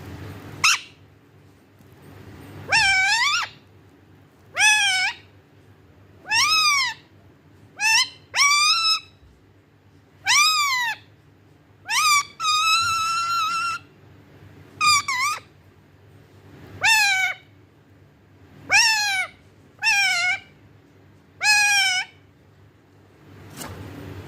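Pet parrot repeatedly calling "maa" in its mimicked voice: about fifteen short calls, each rising then falling in pitch, with one held longer about halfway through.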